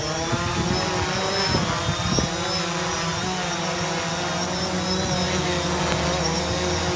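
Small quadcopter drone's motors and propellers whining steadily at a pitch that wavers slightly, with wind buffeting the microphone underneath.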